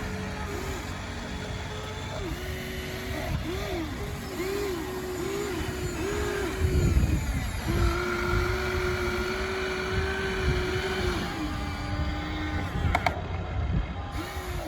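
Small electric motors of radio-controlled toy construction machines whining, the pitch dipping and rising again and again as the motors start, stop and take load. There is a louder low rumble about halfway through and a couple of sharp clicks near the end.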